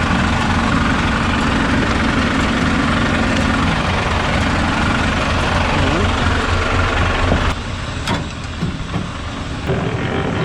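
Scania S650 V8 truck engine idling steadily. About seven and a half seconds in the sound becomes quieter and thinner, with a sharp click just after.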